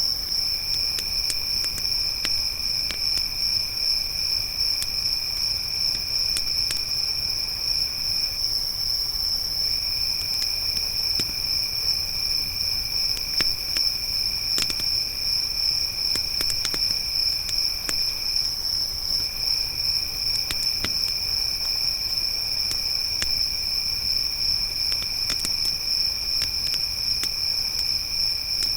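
Crickets trilling steadily in a high, continuous chorus, with a lower second trill that drops out twice for about a second, over scattered crackles and pops from a wood campfire.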